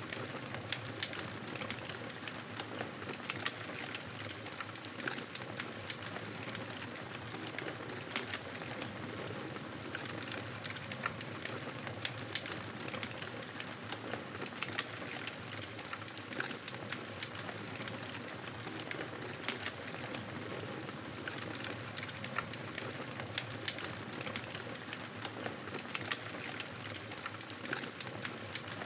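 Wood fire crackling steadily, with frequent small irregular pops and snaps over a soft continuous hiss.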